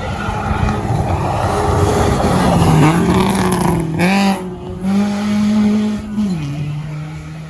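Rally car passing at speed, the engine and tyre noise growing loud over about three seconds. The revs then rise and fall in steps, with a sharp rev about four seconds in and a drop a little after six seconds, as the car moves away.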